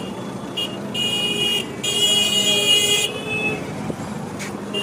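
Vehicle horns honking in road traffic: two high-pitched blasts of about a second each, one starting about half a second in and the next about two seconds in, over a steady traffic background.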